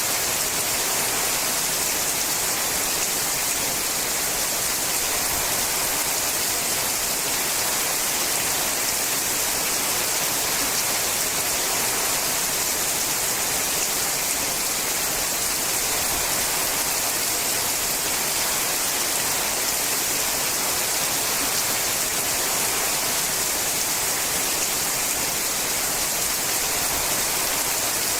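Steady rain falling on a sheet-metal roof, a dense even patter without breaks.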